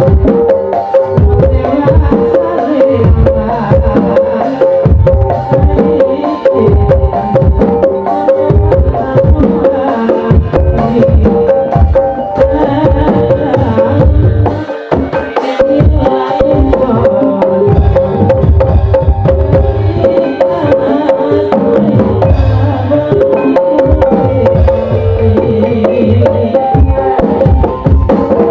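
Live gamelan music for an ebeg dance: sustained pitched tones over busy hand-drum (kendang) strokes, with a short lull about halfway through.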